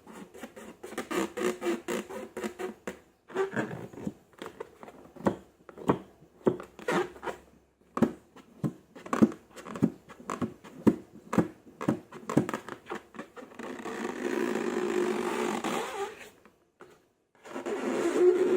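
Slime being squeezed and worked, giving a run of short sticky squelches and clicks. About two-thirds of the way in this turns into a steady rushing, fart-like sound that stops briefly and starts again near the end.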